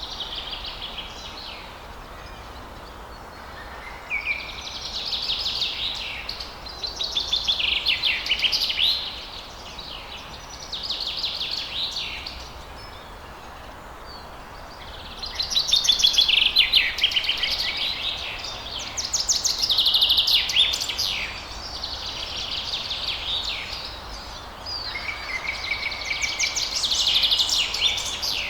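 Songbirds singing in a dawn chorus: bursts of fast, trilled, high-pitched song phrases a few seconds long, separated by short pauses, over a steady low background noise.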